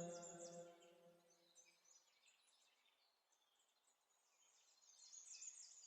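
The reciter's last held note dies away over the first second or two. After that, near silence with faint high chirps that swell a little near the end.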